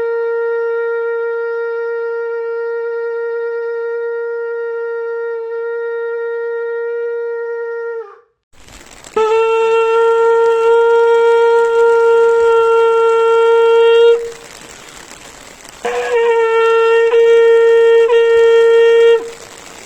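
Shofar blasts: one long, steady note held for about eight seconds. Then, over a background hiss, two more long notes follow, of about five and three seconds.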